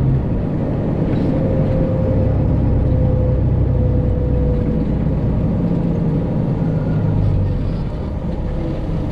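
Freightliner Classic XL semi truck's diesel engine running, heard from inside the cab, with a steady low drone that steps in pitch a few times as the truck drives.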